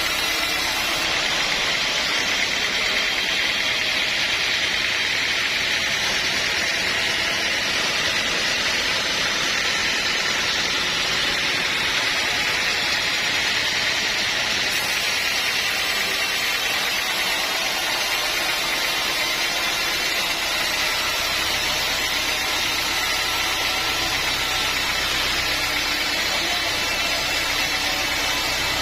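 Sawmill machinery running steadily: a continuous loud, hissing mechanical noise with no pauses, and a low hum that grows slightly in the last few seconds.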